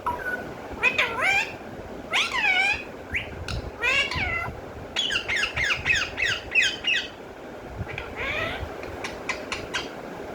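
Pet parrot squawking and calling in a string of sweeping, rising and falling notes, with a quick run of short calls in the middle and a few sharp clicks near the end.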